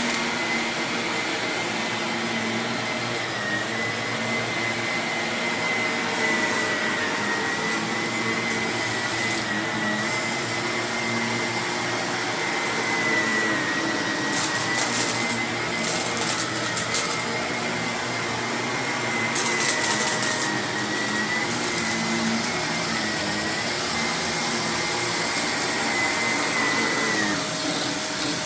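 Vacuum cleaner running steadily over carpet with a high motor whine, crunching and crackling twice around the middle as hidden debris is sucked up. The whine shifts just before the end.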